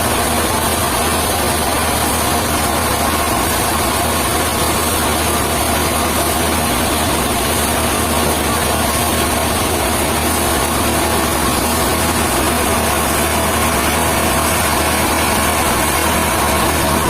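Sawmill machinery running steadily: an even engine drone with a steady higher whine over it, unchanging throughout.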